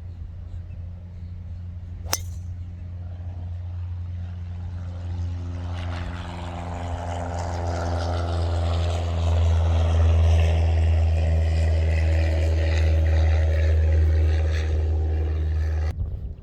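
A motor vehicle's engine or motor running with a steady low hum, growing louder over several seconds and cutting off suddenly near the end. There is a single sharp click about two seconds in.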